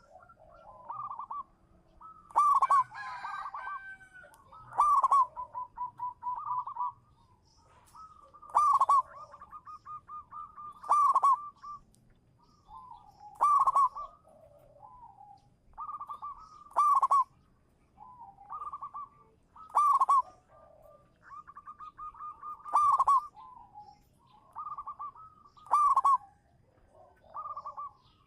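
Zebra dove (perkutut) cooing its song: rolling, staccato coo phrases, with a loud phrase every two to three seconds and softer rolling notes in between.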